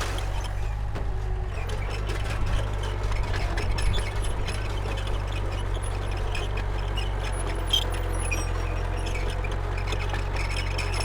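Diesel engine of a Komatsu D31P crawler bulldozer running steadily, with scattered light clicks over the low drone.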